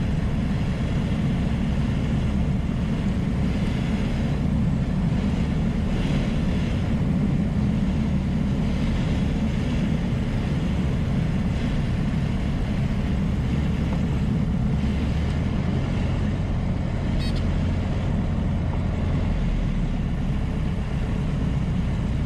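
Piper Cherokee single-engine piston aircraft's engine and propeller droning steadily, heard from inside the cockpit.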